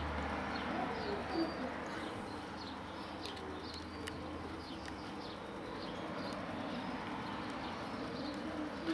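Birds calling in the background: low wavering calls and short high chirps, over a low steady hum that stops about five seconds in.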